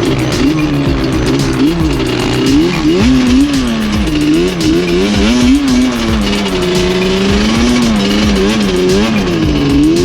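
ATV engine revving up and down over and over as the throttle is worked, its pitch rising and falling repeatedly.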